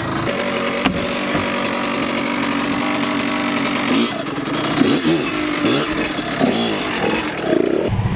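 Vehicle engine running steadily, then revved up and down several times in the second half.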